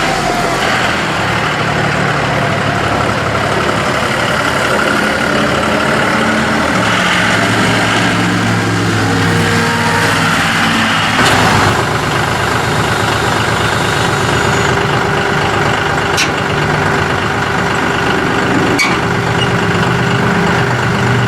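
A 2008 John Deere 5303's three-cylinder turbo diesel running steadily. Its note shifts about halfway through with a brief louder moment, and two sharp clicks come near the end.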